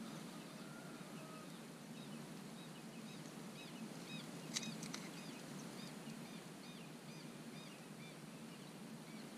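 A bird calling a run of short, arched, chirping notes, about two or three a second, starting about three seconds in, over a faint steady low background noise. One sharp click about four and a half seconds in.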